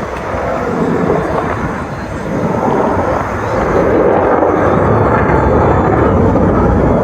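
Jet noise from the Thunderbirds' F-16 fighter jets, a loud steady rush that grows louder about three and a half seconds in.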